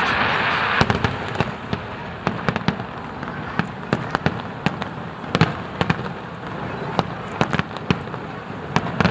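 Aerial fireworks display: many sharp bangs and crackles at an uneven pace over a steady hiss, with a denser wash of crackling in the first second.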